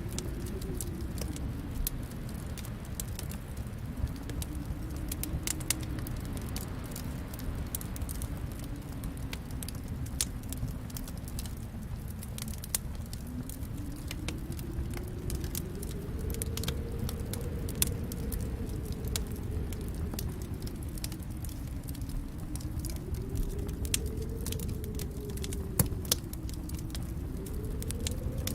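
Wood fire in a fireplace crackling, with frequent irregular sharp pops and snaps over a steady low rumble of the flames. A faint low hum slowly rises and falls in pitch underneath.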